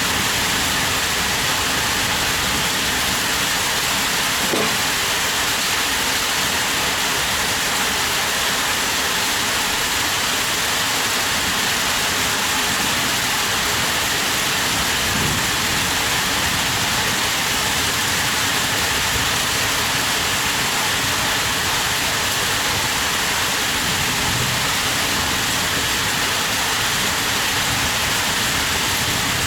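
Heavy rain falling steadily, an even loud hiss.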